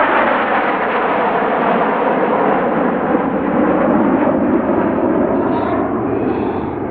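Red Arrows' BAE Hawk T1 jets passing low overhead: a loud, steady jet roar that drops in pitch over the first few seconds as they go by, then eases off near the end.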